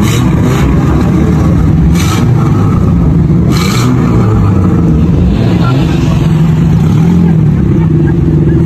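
Car engines running and revving lightly as a queue of cars creeps along. Short hissing bursts come right at the start, about two seconds in and near four seconds in.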